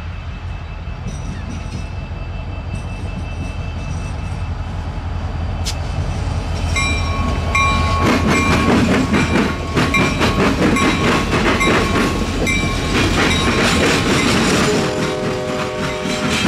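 An EMD GP60 diesel locomotive with a 16-cylinder two-stroke engine runs steadily as it approaches and passes, growing louder to about halfway through. A bell rings repeatedly as it goes by. Heavy molten-steel ladle cars then roll past, their wheels and couplings clattering on the rails.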